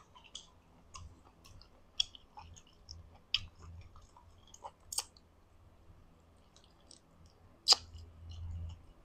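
Close-up mouth sounds of chewing and gnawing boiled chicken, bones and cartilage included: sharp, wet clicks and small crunches at irregular moments, the loudest click coming about three-quarters of the way through.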